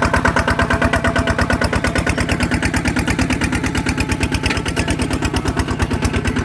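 ZT 155 Plus tractor's single-cylinder diesel engine running steadily, with a fast, even train of firing pulses.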